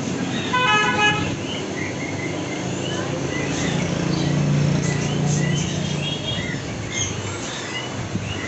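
Small birds chirping over and over in short high notes, with one louder rapid trilled call about half a second in. Under them a low hum swells in the middle.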